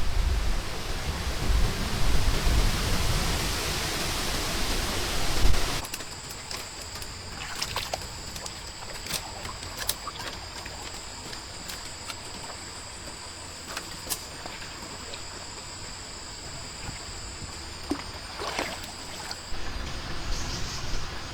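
Rainstorm noise with wind buffeting the microphone, which cuts off suddenly about six seconds in. It gives way to quieter water trickling and dripping, with a steady high-pitched whine and scattered sharp drips or ticks.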